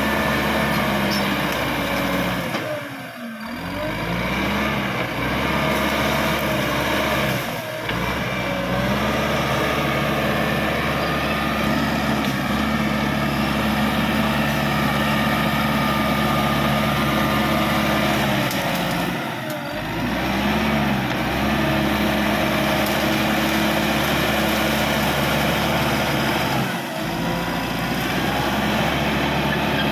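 Caterpillar D5K XL crawler bulldozer's diesel engine running under load, its pitch and loudness dropping briefly and picking back up four times.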